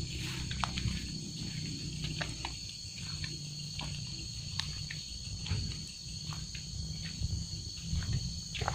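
Night insect chorus: crickets trilling steadily in high, even tones, over a low rumble and scattered faint clicks.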